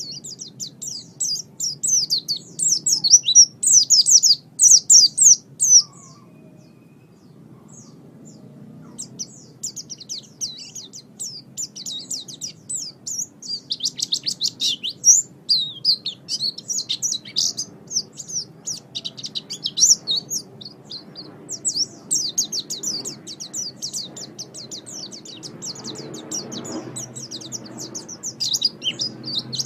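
Songbird chirping and trilling in quick, high-pitched runs, falling silent for a few seconds about six seconds in, then carrying on; a song recording of the kind played to caged songbirds to lure them and teach them song (masteran). A faint low hum runs underneath.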